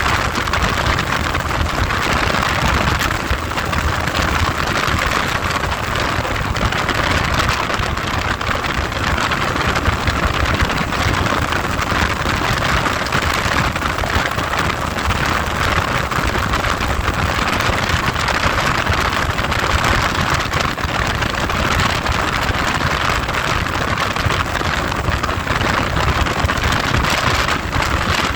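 Heavy wind noise on the microphone while riding: a loud, steady rush with a low rumble underneath.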